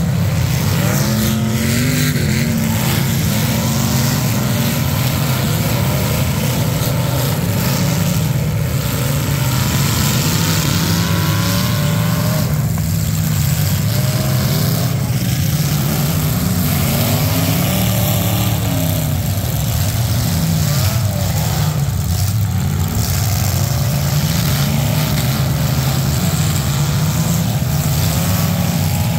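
Several demolition derby cars' engines running and revving together, their pitches repeatedly rising and falling over a loud, steady din.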